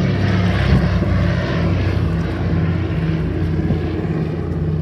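Douglas Dakota's two radial piston engines running steadily as the aircraft flies past, with a deep, even propeller drone.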